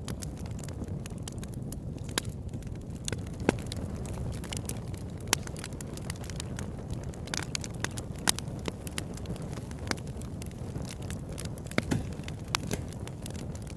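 Campfire burning: wood crackling and popping at irregular intervals over a steady low rumble.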